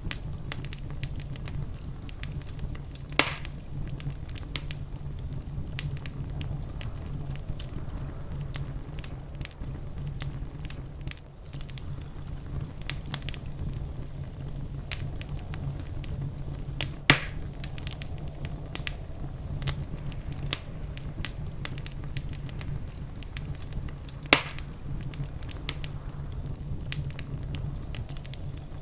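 Wood fire crackling in a fireplace: a steady low rumble of burning with frequent small crackles, and three louder pops about three seconds in, midway and near the end.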